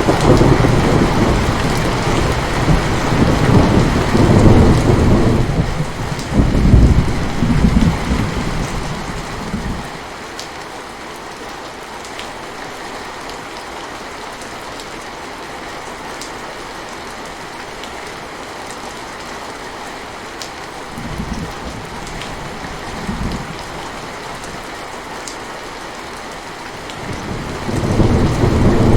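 Steady rain with rolling thunder: a long low rumble through the first ten seconds, loudest about four and seven seconds in, faint rumbles a little after twenty seconds, and thunder building again near the end.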